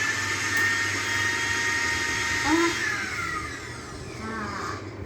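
Electric mixer grinder (mixie) motor running with a steady high whine, then winding down about three seconds in after it is switched off.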